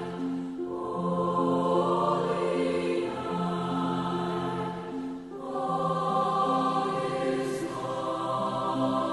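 Slow Christmas choral music: a choir singing sustained notes over held bass notes, with short pauses between phrases about half a second in and again about five seconds in.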